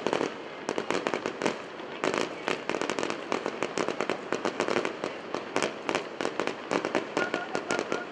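Fireworks going off in quick succession: a dense run of sharp pops and crackles, many a second, with no pause.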